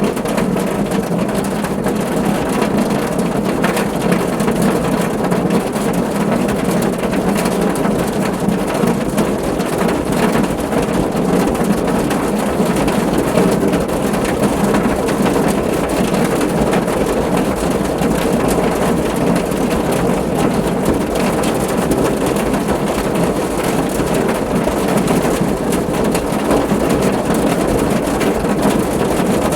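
Steady rain drumming on a car, a dense, even patter with a heavy low rumble.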